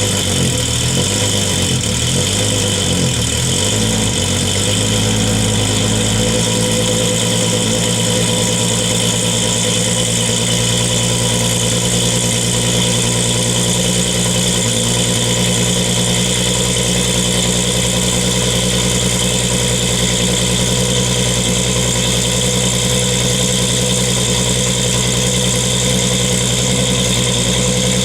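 1998 Toyota Supra Turbo's 2JZ-GTE straight-six idling just after a cold start, heard through an HKS titanium racing exhaust with its silencer fitted. The idle wavers for the first few seconds, then settles to a steady note.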